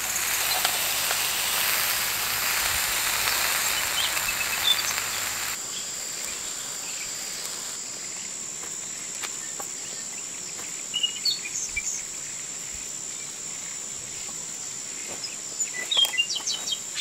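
Food sizzling over an outdoor fire for about five seconds, then cutting abruptly to quieter open-air ambience: a thin, steady, high insect drone with scattered bird chirps, busier near the end.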